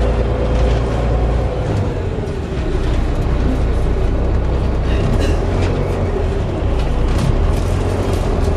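Volvo B7TL double-decker bus's drivetrain heard from on board: a heavy low engine rumble with a thin whine that drops in pitch about two seconds in, and clicks and rattles later on. The whine is of the kind the uploader puts down to a bad differential and a whistling Allison gearbox.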